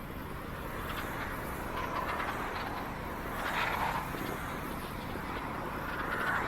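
Steady wind and rolling noise of a bicycle ride, with vehicles swelling past about two, three and a half, and six seconds in.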